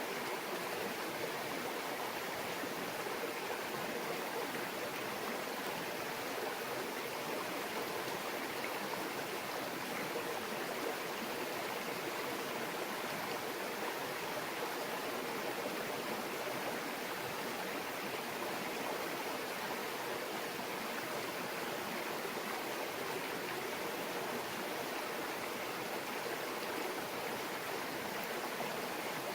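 Shallow mountain stream babbling steadily over rocks, an even murmur of water that does not change.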